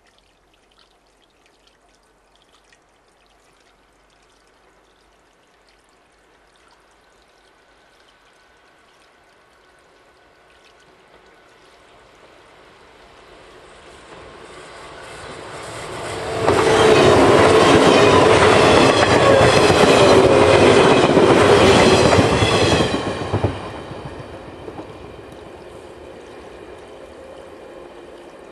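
A 413/475 series electric multiple unit local train approaching and passing close by: a slowly rising rumble, then about six seconds of loud wheel-on-rail noise with a rhythmic clacking as the wheels cross the rail joints, cut down suddenly once it has passed and fading away.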